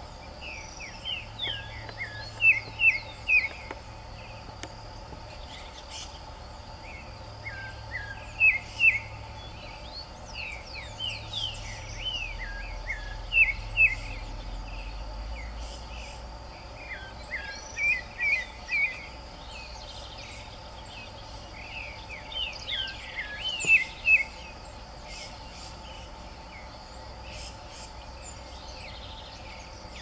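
Green-winged saltator (trinca-ferro) singing short phrases of clear whistled notes, with a pause of a few seconds between phrases, over a steady hum of insects.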